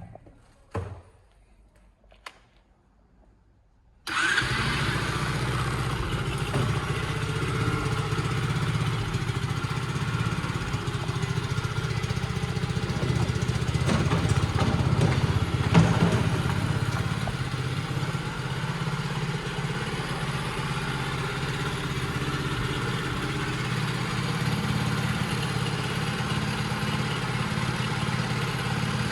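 A few sharp clicks, then from about four seconds in the single-cylinder four-stroke engine of a Skyteam Gorilla 110 monkey bike runs steadily, a little louder around the middle.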